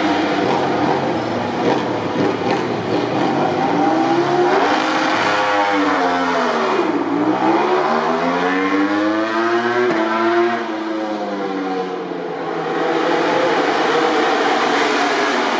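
MotoGP racing motorcycle engines running loudly at high revs. One engine's note falls steeply to a low point about seven seconds in, then climbs again.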